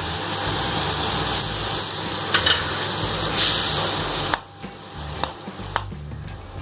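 Tomatoes, green chillies and curry leaves sizzling in ghee in a kadai while a spatula stirs in the rasam powder. About four seconds in the sizzle drops quieter and a few sharp clicks of the spatula against the pan follow.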